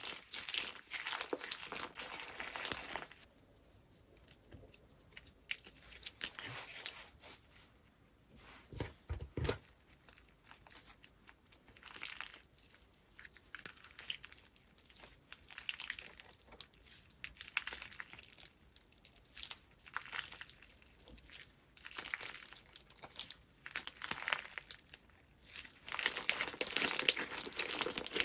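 Slime being played with by hand, with dense crackling and crinkling for the first few seconds and again near the end. In between come separate, softer presses and squishes about every two seconds.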